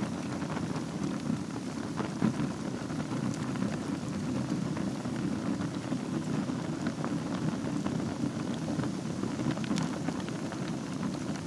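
Wood fire burning in a fireplace: a steady low rush of flames with scattered crackles and pops, one louder pop about two seconds in.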